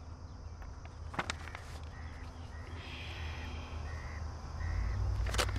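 A bird calling in short repeated notes, roughly one every second, over a low outdoor rumble that grows louder near the end, with a couple of sharp clicks.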